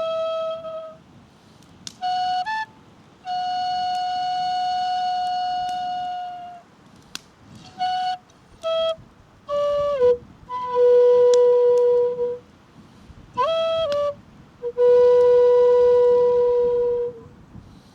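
Solo flute playing slow phrases: long held notes joined by short, quick grace notes, with brief pauses between the phrases.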